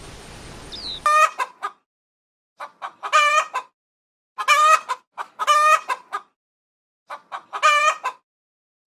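A rooster crowing cock-a-doodle-doo several times in a row, high-pitched, with short silent gaps between the crows.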